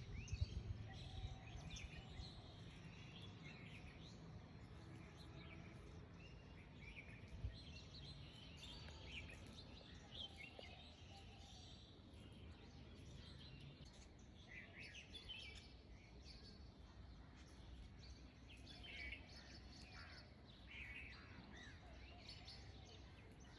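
Near silence: faint low background noise with scattered faint bird chirps.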